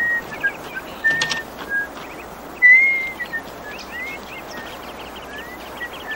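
Bird calls: short clear whistled notes at one pitch, some sliding upward, with the loudest a little before the middle, and a quick run of short high chirps through the second half. A single sharp click comes a little over a second in.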